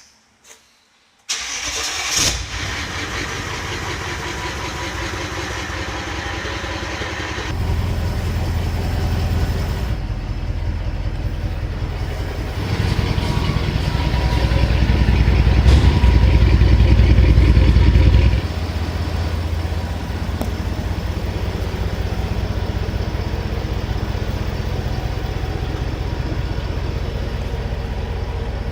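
Mercedes-Benz E420 CDI's twin-turbo V8 diesel, straight-piped with the DPF and muffler deleted, starting from cold about a second in after five months' storage, with a quick flare just after it catches, then running. It grows louder and deeper several seconds later, rises to its loudest for a few seconds past the middle, then drops suddenly back to a steady idle.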